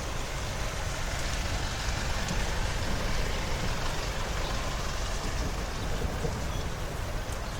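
Steady noise of rain and passing road traffic on a city street.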